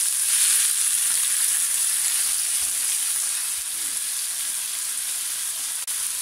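Diced chicken breast, red bell pepper, onion and green onion sizzling in hot oil in a nonstick frying pan: a steady hiss that eases slightly over a few seconds.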